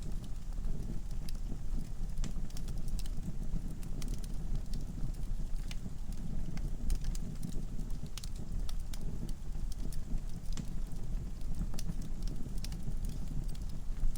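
Wood fire burning in a fireplace: a steady low rumble of flames with frequent, irregular small crackles and pops from the logs.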